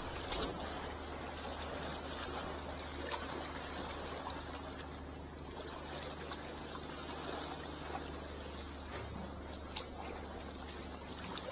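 Sea water trickling and lapping at the shore, with scattered small clicks over a steady low hum.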